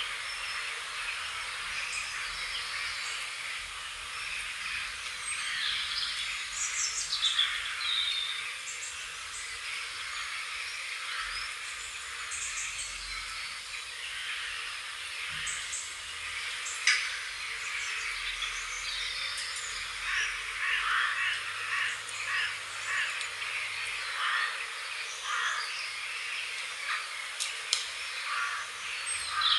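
Wild songbirds chirping and calling, many short overlapping calls throughout, over a steady outdoor hiss.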